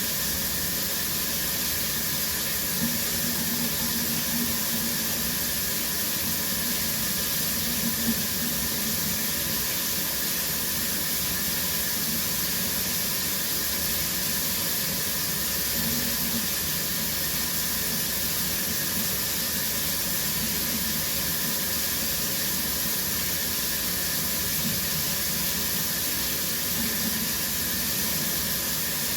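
Shower running steadily: water spraying from the shower head and splashing down in a constant, even hiss.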